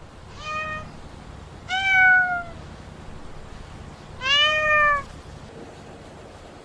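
Domestic cat meowing three times: a short meow, a longer one that falls in pitch, then the longest, rising at the start and then held.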